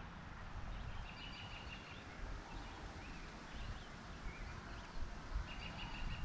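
A bird calling from the lakeshore: a short run of rapid, repeated high notes, heard twice, about half a second in and again near the end, over faint low outdoor rumble.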